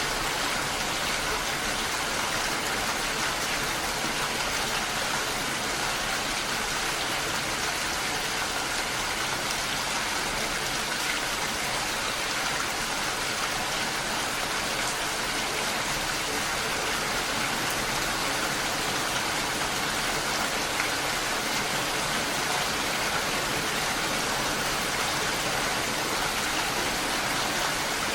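Steady rain falling: an even, unbroken hiss of many drops with no pauses or single loud impacts.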